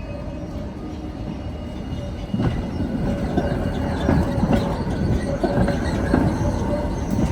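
A Tatra tram running on street track, its wheels knocking over rail joints with a steady rumble that gets louder about two seconds in.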